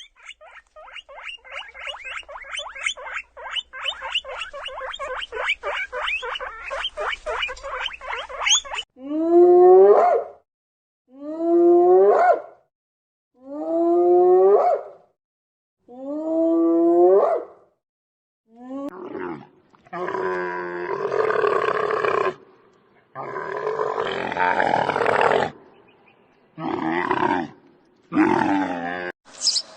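A run of different animal calls: a fast rattling trill for about nine seconds, then four long calls, each falling in pitch, then several rough, noisy calls.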